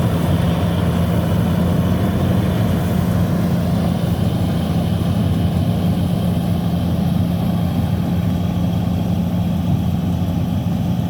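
Engine of a paddy cutter tractor running steadily, a constant low hum and rumble with no change in speed.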